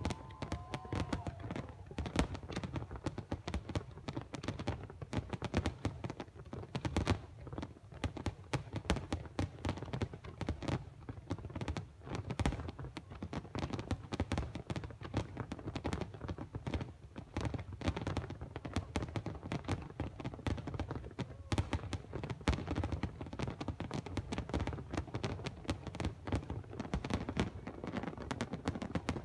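Fireworks display going off continuously, a rapid, irregular run of deep bangs and sharp cracks, several a second.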